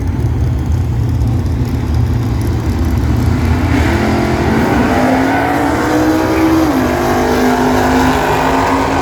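Drag cars' engines rumbling low at the start line, then launching down the strip: the engine note climbs about four seconds in, drops sharply with a gear shift near seven seconds in, and carries on.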